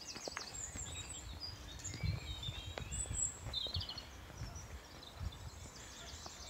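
Small birds chirping and twittering, with a quick trill about three and a half seconds in, over a low outdoor rumble and soft knocks of someone walking.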